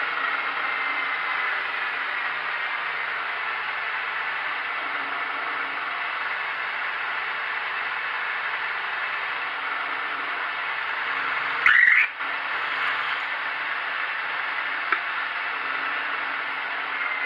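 Machine spindle running while drilling 6 mm holes, a steady noisy hiss with a faint whistle. A brief, much louder burst about twelve seconds in and a small click a few seconds later.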